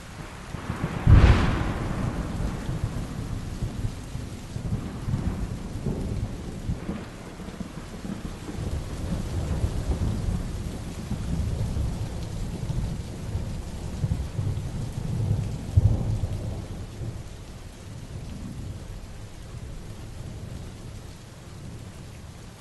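Heavy rain falling steadily, with a sharp thunderclap about a second in that rolls into a long, low rumble. The rumble swells again about two-thirds of the way through, then dies away, leaving the rain.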